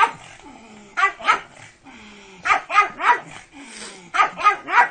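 Pug barking in quick bursts of two or three: a pair about a second in, then three in a row near the middle and three more near the end.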